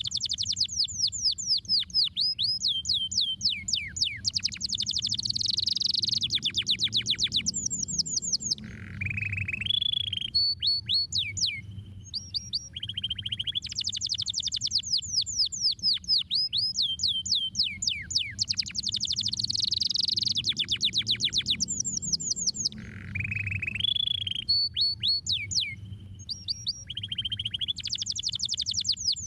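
Domestic canary singing: long rolling trills of rapid downward-sweeping notes, phrase after phrase with brief pauses, the whole song sequence repeating about every 14 seconds.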